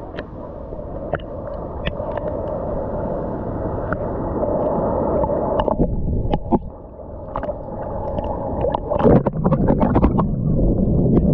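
Ocean water sloshing and gurgling around the microphone as a swimmer moves through the sea, with scattered small splashes and clicks that grow louder and busier about nine seconds in.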